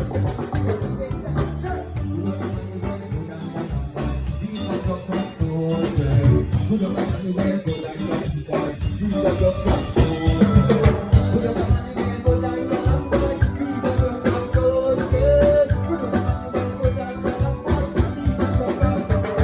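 Live band music with drum kit and guitar playing a steady groove in an instrumental passage.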